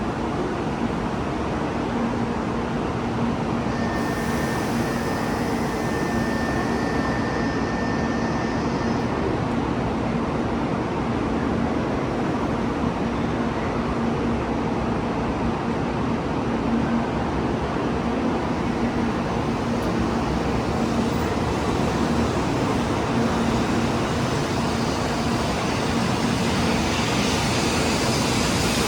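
Train running with a steady rumble and a constant low hum, joined by a faint high whine for a few seconds about four seconds in.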